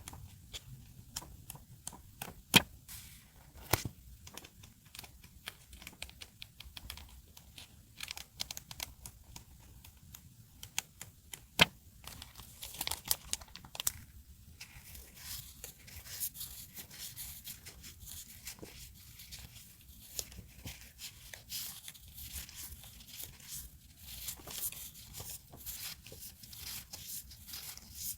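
Paper and masking tape being handled for journaling: scattered taps and clicks, a few of them sharp, then from about halfway a dense stretch of tearing and crinkling paper.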